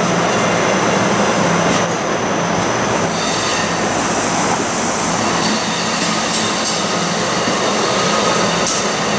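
MARC bilevel passenger coaches rolling past close by: a loud, steady rush of steel wheels on rail, with thin high squealing tones from the wheels that fade after the first few seconds.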